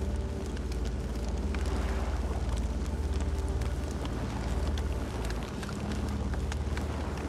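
Campfire burning: many scattered sharp crackles and pops over a steady low rumble.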